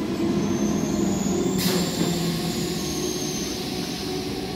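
Electric multiple unit local train pulling away: a steady rumble of wheels on rails with a low hum and a faint high whine. There is a short hiss about a second and a half in.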